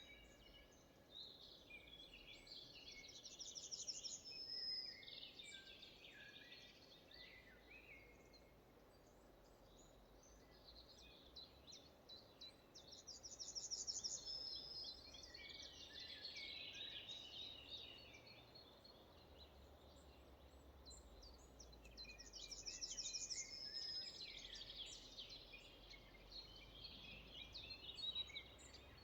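Faint forest birdsong: one songbird repeats a short song with a rapid trill about every ten seconds, while other birds chirp now and then over a quiet background hiss.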